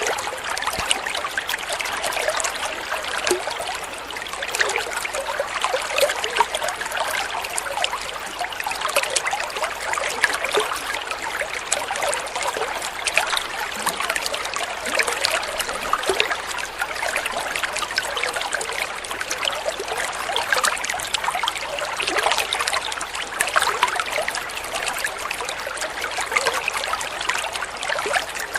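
Water flowing and trickling steadily, a continuous babble of small splashes.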